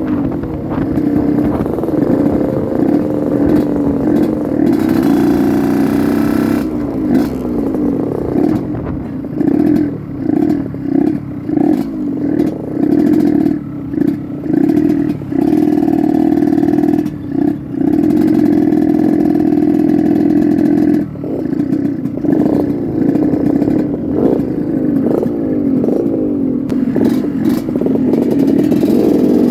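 Yamaha RX-King two-stroke motorcycle engine running while ridden. Through the middle the throttle is opened and closed in a string of short surges, then held steady, with one brief dip about two-thirds in.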